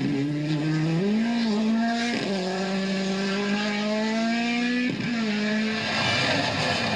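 Rally car engine pulling hard under acceleration, its note climbing steadily and dropping sharply at upshifts about two and five seconds in. Near the end the engine note gives way to a noisier rush.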